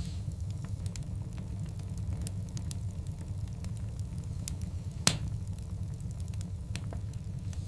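Wood fire of large burning logs crackling: scattered sharp crackles over a steady low rumble, with one loud pop about five seconds in.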